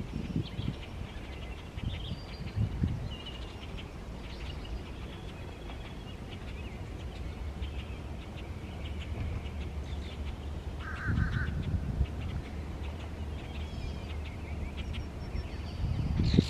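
Outdoor birds chirping and calling on and off over a low rumble, with one short, harsher call about eleven seconds in.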